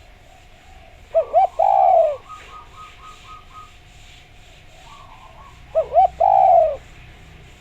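Spotted dove (derkuku) cooing its song twice, each phrase two short coos followed by one longer falling coo, a few seconds apart. A faint steady tone runs underneath.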